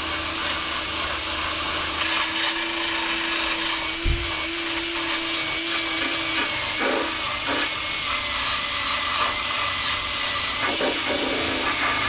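Electric drill running steadily under load against car body metal, with a constant high whine. A single short knock comes about four seconds in.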